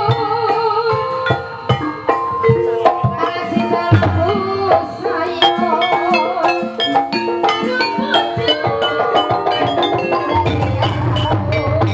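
Live gamelan music accompanying an ebeg dance: kendang hand drums and struck tuned percussion playing a busy, steady rhythm.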